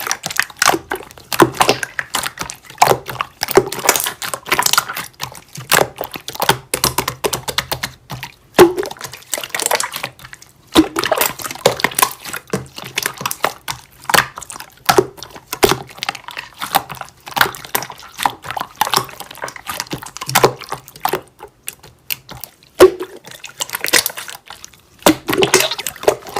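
Dense, irregular wet clicking and squishing in runs of a few seconds, with short pauses between runs.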